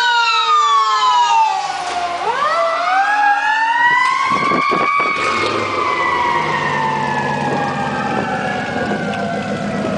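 A siren wailing: it falls, rises again, then slowly falls. A low engine rumble joins underneath in the second half.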